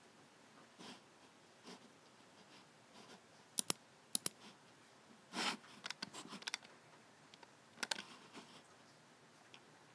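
Logicool G7 computer mouse buttons clicking: sharp clicks in close pairs of press and release, scattered among softer taps and a brief scuff about halfway, as the mouse is handled.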